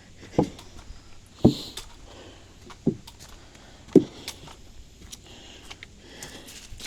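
Footsteps on a leaf-strewn woodland trail: four heavy thuds about a second apart, with light crackling of dry leaves and twigs underfoot.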